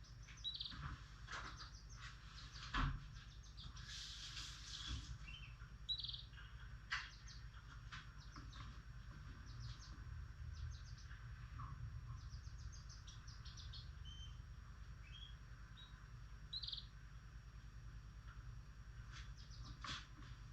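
Pet lovebirds chirping and calling in short, scattered notes, with a quick run of chirps about two-thirds of the way through. A steady low hum runs underneath.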